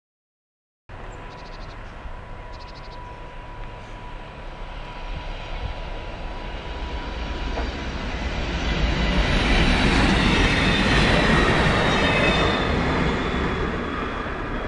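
Stadler GTW electric articulated railcar approaching on the rails, its running noise starting about a second in, growing steadily louder to a peak past the middle and then easing.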